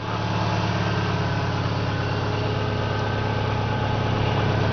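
Subaru EJ22 flat-four engine idling with a steady low hum.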